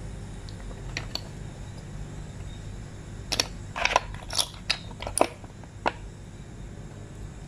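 A few scattered sharp crunching clicks, two faint ones about a second in and then a cluster of six or seven in the middle, over a steady low hum.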